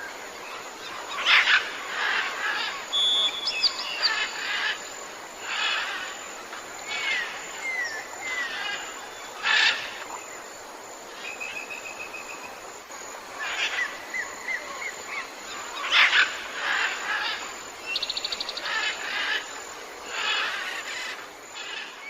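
Several jungle birds calling over a steady background hiss. The calls include harsh, noisy calls that repeat every second or two, short whistled notes that slide in pitch, and a rapid trill about three quarters of the way through.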